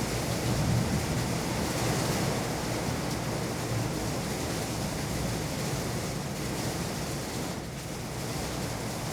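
Heavy rain pouring down, a steady dense hiss with a low rumble underneath.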